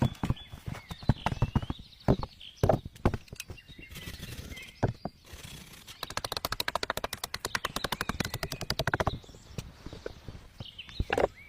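Irregular sharp knocks and taps, then a fast, even run of strokes for about three seconds in the middle, with more knocks near the end; small birds chirp faintly at the start and end.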